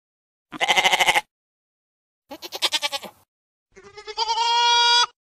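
Goat bleating three times: two short, quavering bleats, then a longer, steadier one.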